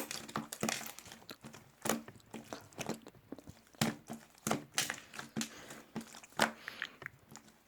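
Crinkling and crackling of a peach drink's packaging being handled: a quick, irregular run of sharp crackles and clicks.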